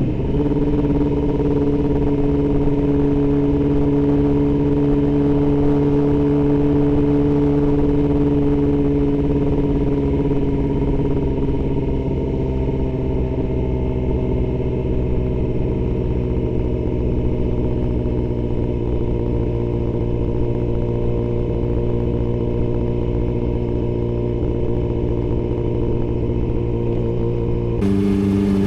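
Yamaha R6 inline-four engine running at a steady cruise, its pitch slowly sinking over the first half, then holding. Near the end the engine note changes suddenly.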